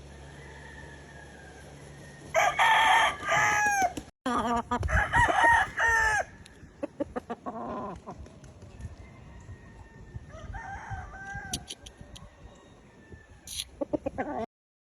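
Gamefowl roosters crowing: two loud crows in the first half, a fainter crow about ten seconds in, with scattered short clicks and clucks between. The sound cuts off suddenly near the end.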